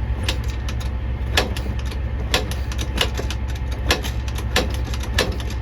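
Can-Am DS90 quad being kicked over again and again without the engine catching: a sharp mechanical clack with a short ring about once a second, over a steady low hum.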